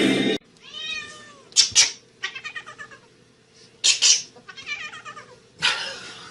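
A cat meowing repeatedly, a string of short calls with brief pauses between them.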